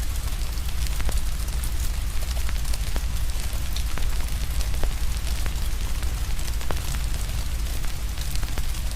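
Fire crackling with irregular sharp pops over steady rain hiss, with a constant deep rumble underneath.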